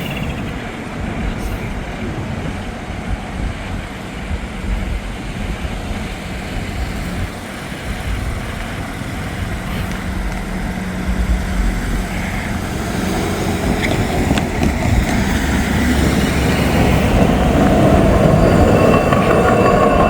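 A train rolling past on the tracks with a steady rumble and rail noise, growing louder over the last few seconds.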